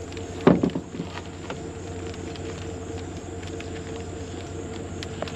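A vehicle engine idles with a steady low hum. A short cluster of loud knocks comes about half a second in, followed by a few faint clicks.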